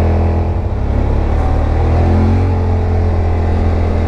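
Yamaha RMAX side-by-side's engine running as it drives along, a steady low drone whose pitch rises and falls a little with engine speed.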